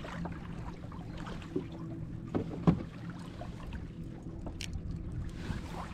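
Knocks and handling noise aboard a kayak on the water, over a steady low hum, with one sharper knock a little before halfway.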